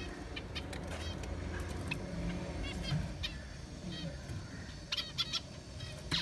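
Caged small birds giving many short, separate chirps and chip calls, with a cluster of louder calls about five seconds in and again at the end, over a steady low background rumble.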